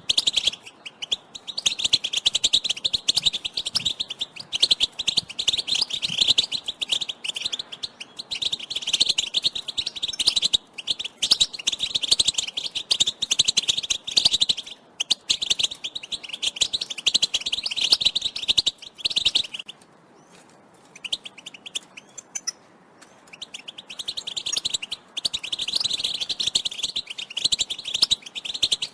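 European goldfinch twittering: long runs of rapid, tinkling chirps. They stop for a few seconds past the middle, leaving only a few faint notes, then start again.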